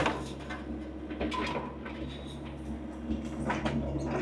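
Compact digging machine's engine running steadily, with irregular scraping and clunking of the bucket and linkage working dirt.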